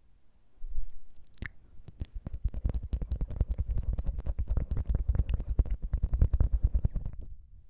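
Close-miked ASMR mouth sounds: a couple of separate tongue clicks, then rapid tongue fluttering, a fast wet train of clicks at about a dozen a second, that stops shortly before the end.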